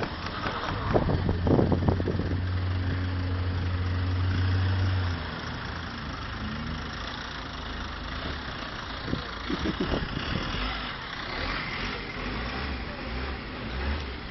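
Car engine running with a steady low drone for the first few seconds, then dropping to a rougher, lower rumble, over a haze of road noise with a few knocks.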